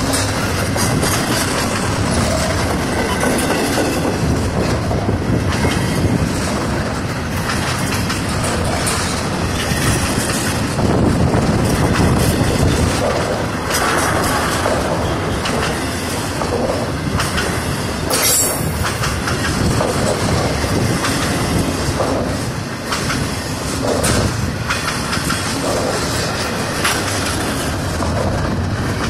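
Double-stack intermodal freight train rolling past close by: a steady rumble of steel wheels on the rails with irregular clickety-clack over the rail joints. About 18 seconds in there is a short, sharp metallic noise.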